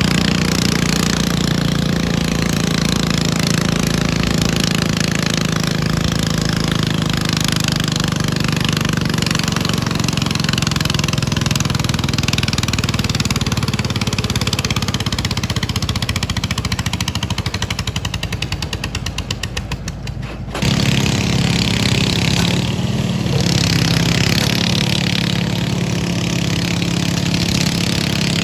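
Garden tractor pulling engine running hard at high throttle. About two-thirds of the way through it slows into distinct, evenly spaced firing pulses, then cuts off abruptly and a steady running engine takes over.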